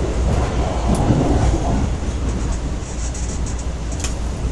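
Passenger train running, heard from inside the carriage: a steady low rumble of wheels on track, with a sharp click about a second in and another near the end.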